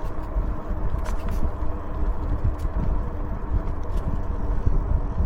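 Wind rumbling on the microphone and road noise from a moving e-bike, with a steady faint hum underneath and a few light rattles.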